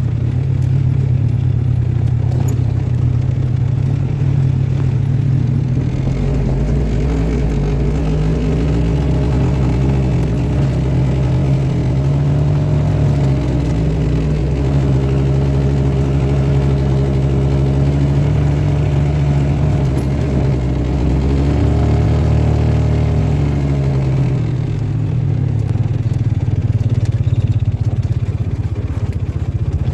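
A vehicle engine running continuously as it is driven, its pitch rising and falling with changes of speed, and briefly easing off about 24 seconds in.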